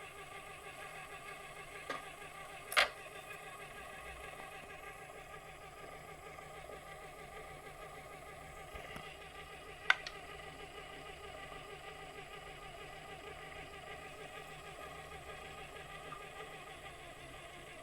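Mini-lathe running steadily with a constant machine hum. Two sharp clicks or knocks stand out, about three seconds in and again about ten seconds in.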